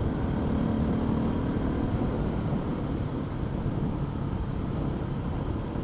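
Motorcycle engine running under load as the bike climbs a hill, with a steady rush of wind and road noise over it; a faint steady engine note shows in the first couple of seconds before it sinks into the rumble.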